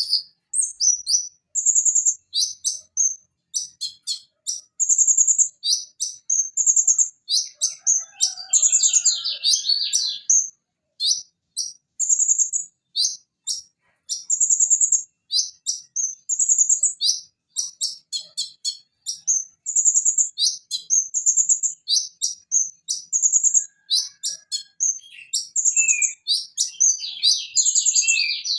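Van Hasselt's sunbird (konin, Leptocoma sperata) singing a fast, high-pitched song of short sharp chirps and rapid trills, delivered in quick bursts with brief gaps.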